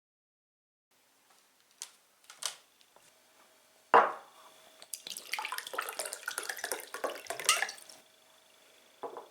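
Water splashing and dripping: a few small drips, a sharp splash about four seconds in, then several seconds of irregular small splashes and trickling that fade out near the end.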